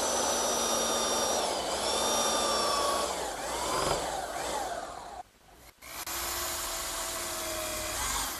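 Belt sander running, grinding protruding dowel ends flush with a desk leg; its whine dips as it is pressed into the wood. It stops about five seconds in, then runs again after a brief gap.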